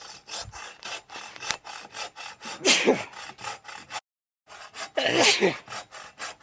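Hand saw cutting through a dead tree limb in quick back-and-forth strokes, about four a second. Two louder short sounds with a falling pitch come about three and five seconds in, and the sound cuts out briefly near the four-second mark.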